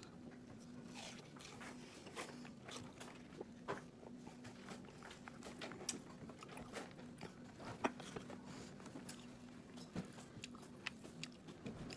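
Watermelon being bitten and chewed close to the microphone: irregular crunching bites and chewing clicks.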